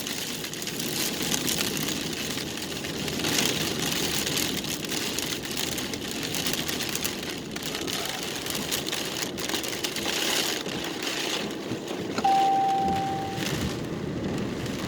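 Rain and wind-driven water hissing and pattering on a moving vehicle, in swells every few seconds. About twelve seconds in, a single short electronic beep sounds for about a second.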